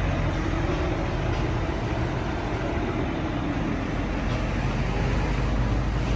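A heavy vehicle's engine running steadily, a low hum under an even rumble of noise.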